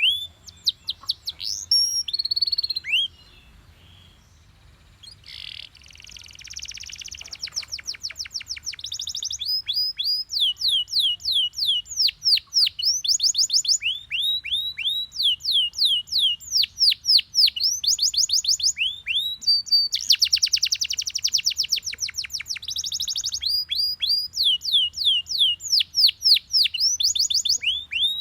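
Belgian canary singing: a few notes, a short pause about four seconds in, then long runs of quick repeated down-sweeping notes, with dense rolling trills about six seconds in and again near twenty seconds.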